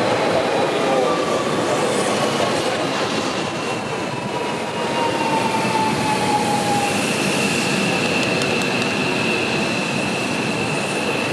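Seibu Railway electric train running on the rails with a steady rolling noise. A thin whining tone glides slowly down in pitch, and a higher steady whine sets in about seven seconds in.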